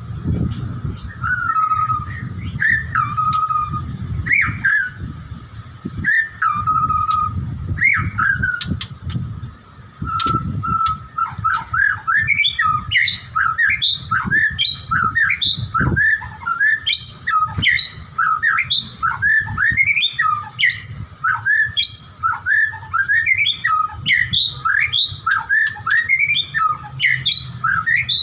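White-rumped shama (murai batu) singing. For about the first ten seconds it repeats a phrase every second or two, a quick rising note and then a held whistle. After that it breaks into a fast, varied run of many quick notes, over a low rumble.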